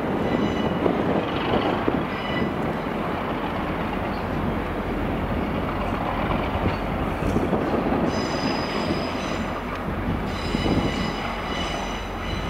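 Class 150 Sprinter diesel multiple unit running slowly through curved pointwork with a steady rumble, its wheels squealing in thin high tones on and off, most of all over the last few seconds.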